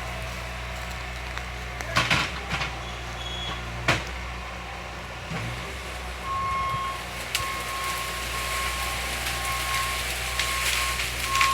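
A heavy machine's engine running steadily, with a couple of sharp knocks. About halfway in its reversing alarm starts beeping in a steady series of high beeps.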